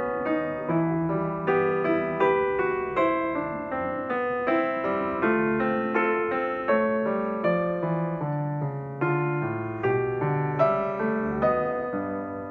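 Background piano music: a gentle melody of single struck notes, each ringing and fading.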